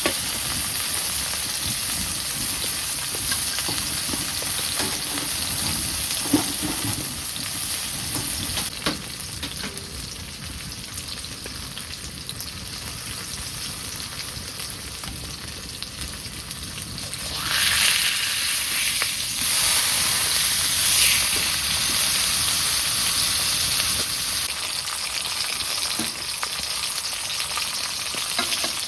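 Beef steak sizzling as it fries in a hot pan, a steady crackling hiss that flares up louder about 17 seconds in for several seconds, then settles back.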